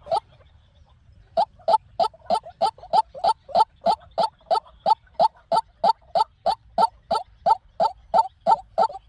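White-breasted waterhen calling: a run of harsh, evenly repeated notes about three a second, after a break of about a second near the start.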